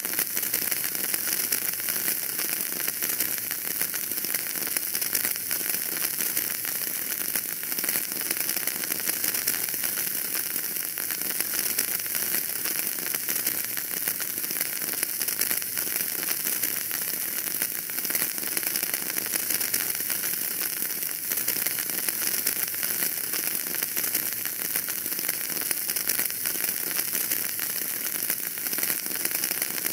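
Wood fire burning in a fireplace, crackling steadily with a dense scatter of small pops over a continuous hiss.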